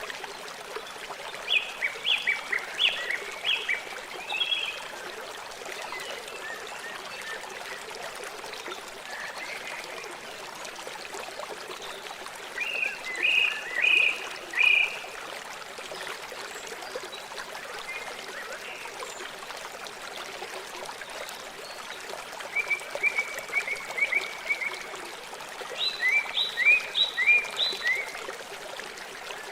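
River water flowing steadily. A bird calls over it four times, each time in a short run of quick, sharp notes.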